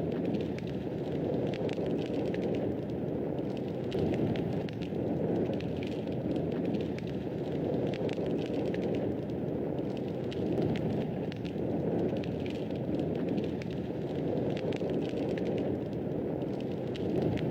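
Wood fire burning in a fireplace: a steady low rush of flames that swells and eases every few seconds, with frequent small crackles and pops from the burning wood.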